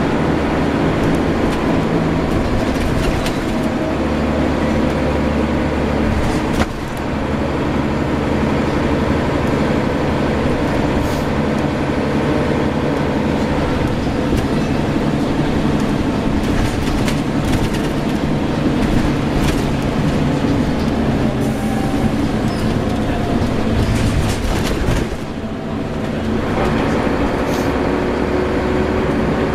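Scania L94UB single-decker bus running, a steady engine and road noise with brief dips in level about seven seconds in and again about twenty-five seconds in.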